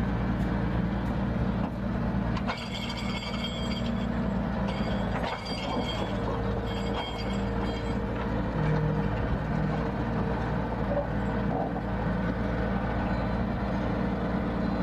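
Heavy truck engine running steadily with a low hum. Several high-pitched squeals come and go from about two and a half to eight seconds in.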